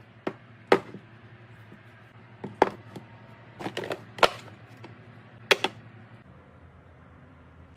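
Items being handled and set down during fridge restocking: about six sharp knocks and clicks of containers, spread unevenly, over a faint steady low hum.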